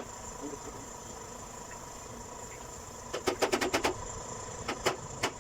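A quick run of sharp knocks, about ten a second, for under a second a little past halfway, then three single knocks near the end, over a faint steady high-pitched whine.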